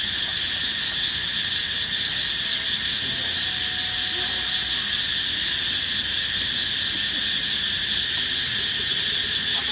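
A dense, steady chorus of forest insects, a continuous high shrill with a fine rapid pulsing.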